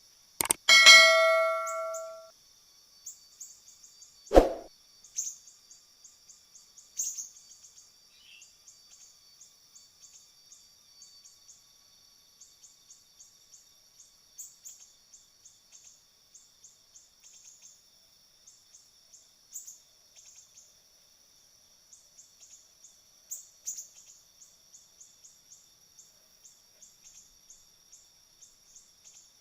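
A single ringing metallic clang about a second in, then a sharp knock a few seconds later. After that, quick high-pitched bird chirps repeat over and over above a steady thin high hum.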